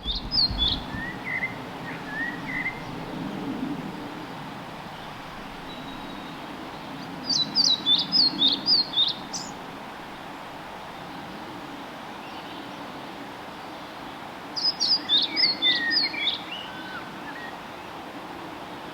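Male pied flycatcher singing: a short, quick phrase of high, sweet notes, given twice about seven seconds apart. Fainter calls from other woodland birds come early on.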